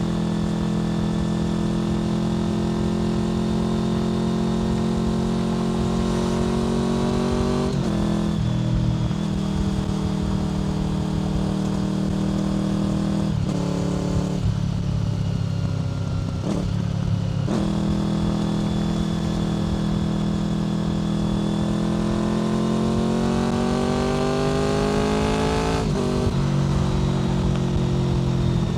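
Honda VFR800 FI's V4 engine through a Black Widow aftermarket exhaust under way, its note climbing with the throttle and dropping sharply at gear changes about 8 seconds in and again near the end. It runs lower and steadier for a few seconds in the middle before it pulls up again.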